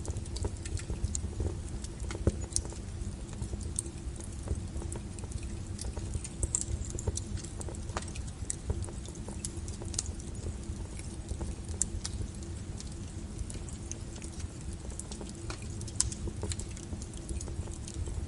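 Wood fire burning in a fireplace: irregular sharp crackles and pops of burning logs over a steady low rumble of flames.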